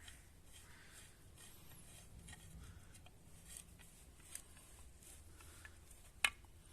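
Small screws being turned in by hand with a screwdriver: faint scraping and ticking, with one sharp metallic click about six seconds in.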